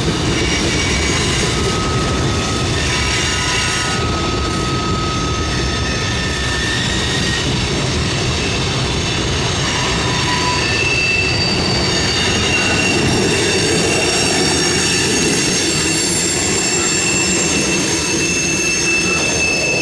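Freight train rolling past: a steady rumble of steel wheels on rail, with thin high-pitched wheel squeal that keeps coming and going and changing pitch.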